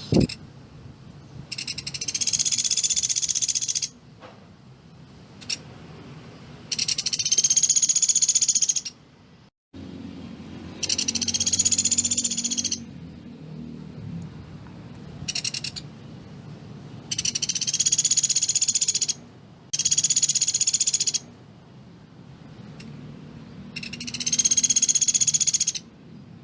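Pelatuk beras calling in a series of high-pitched, very fast rattling trills, about seven bursts of one to two seconds each with short pauses between them.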